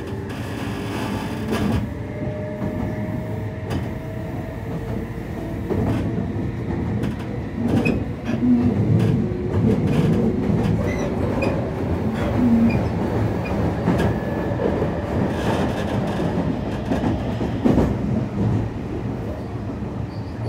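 Meitetsu 3500 series electric multiple unit running at speed, heard inside motor car 3558, which carries trial traction motors fed by a Toyo Denki IGBT VVVF inverter. A steady rumble with a faint motor and inverter hum and repeated knocks of the wheels over rail joints.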